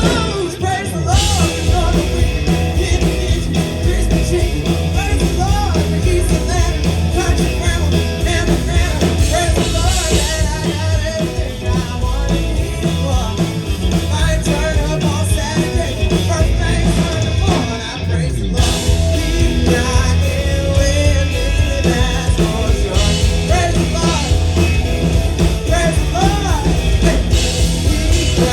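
Live band with a male lead singer performing an upbeat country-rock song, with heavy bass and drums under the vocal. The music drops out briefly about two-thirds of the way through, then comes back in.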